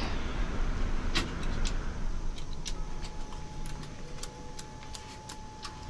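Boeing 787-9 engines winding down in the cockpit, a low rumble fading steadily after shutdown with the APU running, with scattered sharp clicks. A faint steady tone comes in about halfway through.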